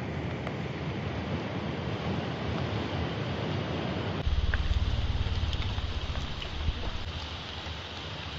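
Steady rushing noise with wind buffeting the microphone; the low rumble jumps up suddenly about four seconds in.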